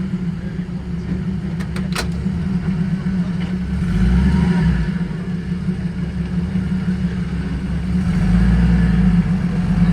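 Car engine and exhaust running at a steady idle, with a deep rumble that swells twice, about four and eight seconds in. There is a sharp click about two seconds in.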